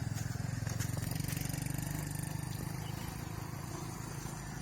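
Caterpillar excavator's diesel engine running steadily, a low rumble with a fast, even pulse.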